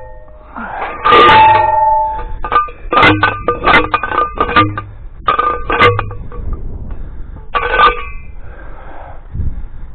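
Steel T-posts clanging: a string of about a dozen sharp metal-on-metal strikes, each with a short bell-like ring. The strikes come in clusters, the loudest about a second in and a quick run of them in the middle.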